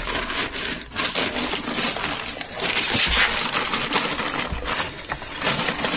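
Clattering and scraping of metal as a heavy differential housing is handled and shifted about, with a run of quick knocks and a rough scraping hiss.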